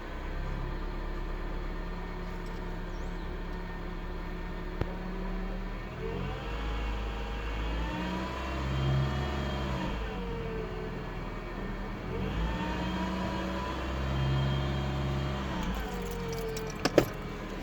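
2003 Citroën C3 1.4 petrol engine idling and revved twice. A whine like reverse-gear whine rises and falls in pitch with the revs; the owner says it is there from start-up until shut-off. A few sharp clicks come near the end.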